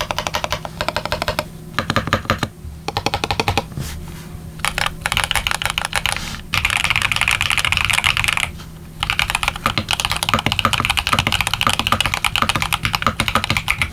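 Mechanical keyboard with factory-lubed TX Lemonade linear switches and PBT dye-sublimated keycaps on a brass-reinforced Mode80, typed fast. The typing comes in bursts with short pauses between them, and there is an unbroken rapid run about halfway through.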